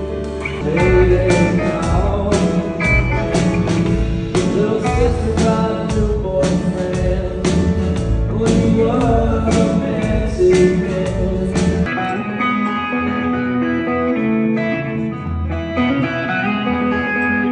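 Band music with guitar, a singing voice and steady drum beats; about twelve seconds in the drums and bass drop out, leaving guitar and voice.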